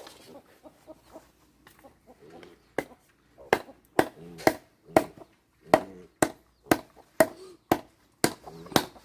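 A blade chopping in a steady rhythm, about two sharp strokes a second, beginning about three seconds in after a few lighter taps, with short animal calls between the strokes.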